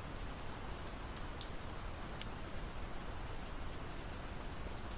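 Soft, steady rain hiss with a few faint drip ticks.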